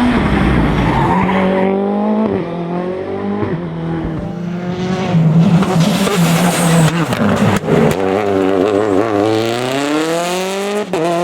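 Rally car engine at full throttle, its pitch climbing and then dropping sharply at each gear change. There are several sharp cracks about seven and a half seconds in.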